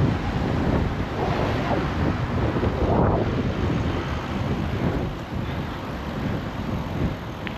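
Wind buffeting the microphone of a GoPro on a moving bicycle: a rough, gusting rumble that eases a little in the second half.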